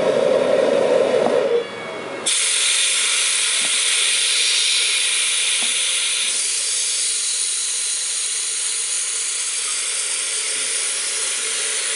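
Homemade propane-fuelled jet engine running: a loud rushing noise with a steady hum that stops about a second and a half in. After a brief dip, a loud, steady, high hiss starts about two seconds in.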